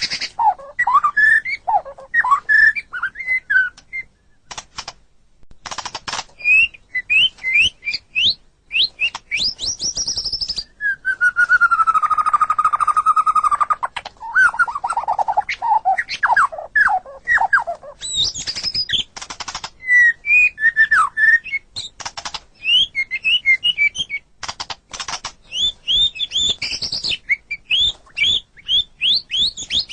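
White-rumped shama singing a long, varied song: rich whistles, quick rising and falling sweeps, and dry clicking rattles, with one long held whistle about halfway through.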